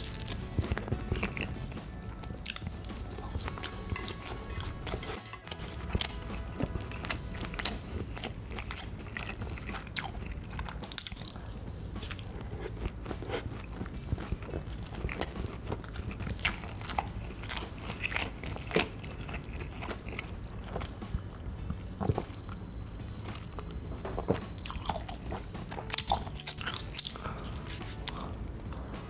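Close-miked eating sounds: a person biting and chewing food, with irregular crisp crunches and wet clicks.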